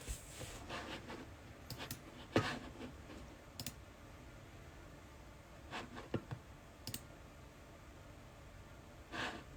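Scattered light clicks and taps, the sharpest about two and a half seconds in, with a brief rustle near the end.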